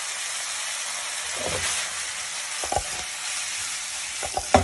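Chicken and vegetables sizzling as they stir-fry in a wok: a steady hiss broken by a few knocks, the loudest near the end as the wok is tossed to flip the food.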